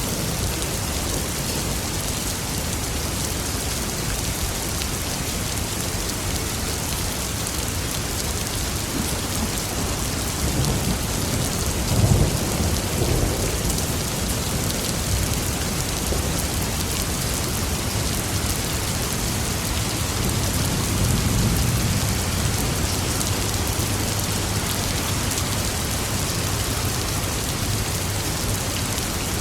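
Steady heavy rain falling, with thunder: a sharp crack and rumble about twelve seconds in, and a longer, softer roll of thunder a little after twenty seconds.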